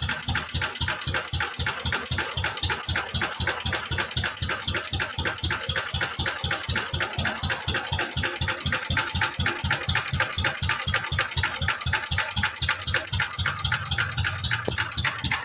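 McCormick-Deering Type M 1.5 hp hit-and-miss stationary engine running just after a cold start, with a steady, even, rapid beat.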